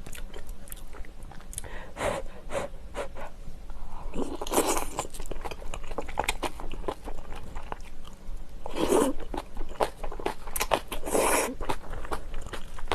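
Close-up chewing and crunching of food, with quick wet mouth clicks throughout and a few louder crunches.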